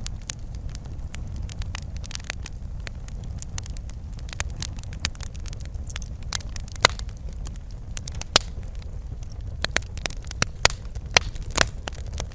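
Wood fire burning in a fireplace, a steady low rumble of flame under irregular crackles and sharp pops, with a few louder snaps in the second half.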